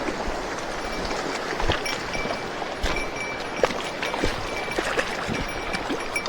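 Mountain stream water rushing steadily, swollen by heavy rain, with scattered light clicks and small splashes over it.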